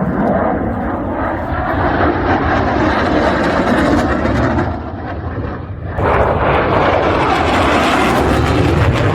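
Loud aircraft engine noise from a display flight, a dense rushing sound that dips briefly about five seconds in and comes back abruptly about a second later.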